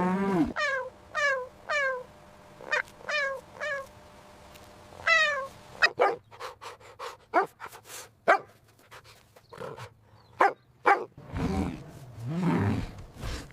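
A dog barking: short yelps that drop in pitch, in quick groups of three, then a run of short sharp barks. A lower, longer sound comes near the end.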